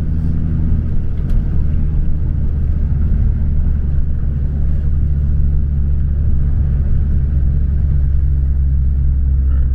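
10th-generation Honda Civic's turbocharged four-cylinder running steadily under way, a continuous low rumble with road noise; the engine note changes about a second in.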